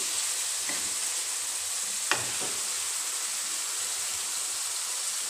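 Round gourd (tinda) curry sizzling in a kadhai over a gas flame as it is stirred with a spatula. The sizzle is a steady hiss, with a sharp knock of the spatula against the pan about two seconds in.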